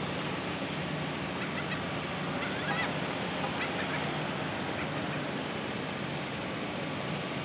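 Steady rushing outdoor background noise, with a few short bird calls between about one and a half and three and a half seconds in.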